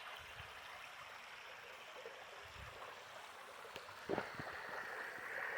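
Faint, steady rush of flowing water, with a brief knock about four seconds in.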